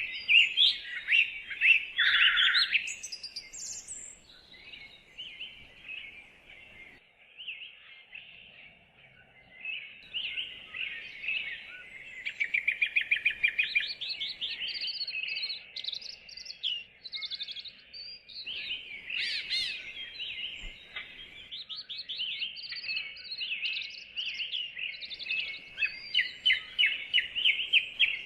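Several songbirds singing and chirping, with rapid trills and short repeated notes overlapping, over faint woodland background hiss.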